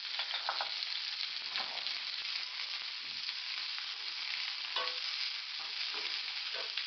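Sliced onions, green chillies and ginger-garlic paste sizzling in hot oil in a frying pan, a steady hiss, while a spatula stirs them and scrapes or knocks against the pan a few times.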